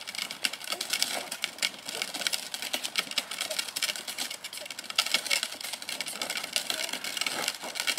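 A child's toy ride-on bike rolling along, its wheels giving a continuous rapid, irregular clicking rattle.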